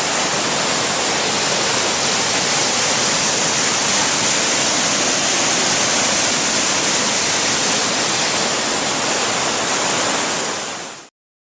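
Rain-swollen stream rushing in a steady, loud wash of water, running high through a stretch that is usually dry. It cuts off suddenly near the end.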